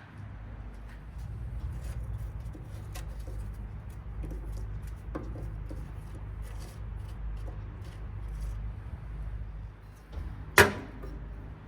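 Charcoal grill with faint crackles and small clicks from the coals over a steady low rumble, and one sharp knock about ten and a half seconds in.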